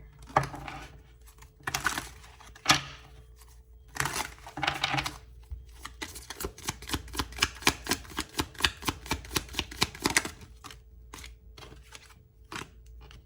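Tarot cards being handled and shuffled: a few rustling swishes, then a fast run of crisp card slaps at about five a second, thinning out near the end.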